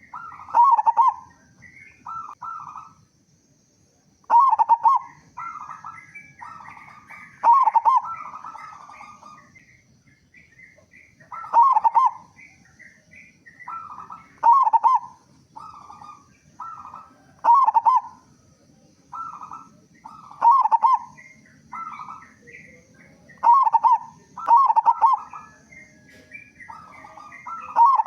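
A local zebra dove (perkutut) in full song (gacor), repeating its phrase of quick rolling coos every three to four seconds. Faint chirps of other small birds and a steady faint high whine run behind it.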